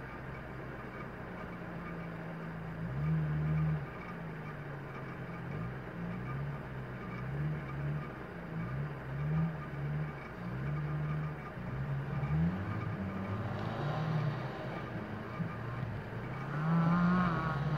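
Off-road vehicle engine running, its pitch rising and falling again and again as it is revved, with a louder surge about three seconds in.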